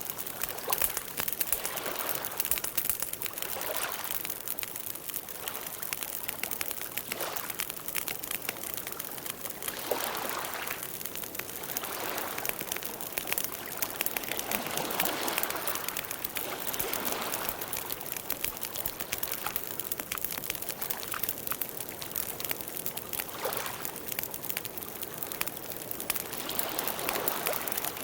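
Campfire burning, the wood crackling with a constant scatter of small pops, and soft rushing swells of flame rising and falling every few seconds.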